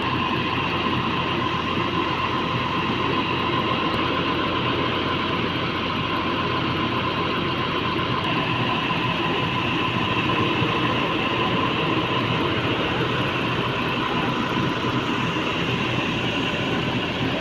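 Heavy construction machinery engine running steadily, with a constant high whine over the engine noise.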